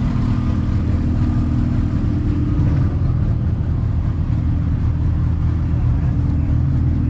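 A car engine idling steadily with an even, low rumble.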